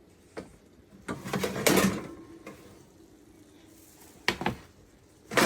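Kitchen clatter from a baking pan being handled: a light tap, then about a second of scraping and rattling, then two sharp knocks near the end.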